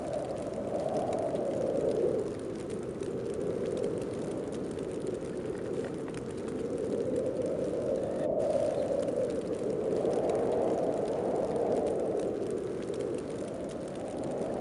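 Snowstorm wind blowing in gusts, a howling tone that slowly rises and falls in pitch and loudness every few seconds over a steady rush.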